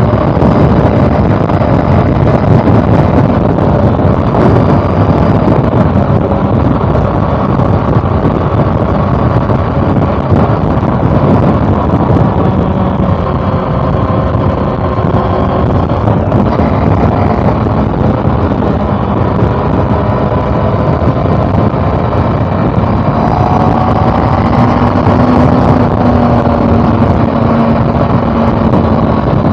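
Honda CB400 Super Four's inline-four engine running steadily under way, its note drifting slowly up and down, with heavy wind rush on the microphone.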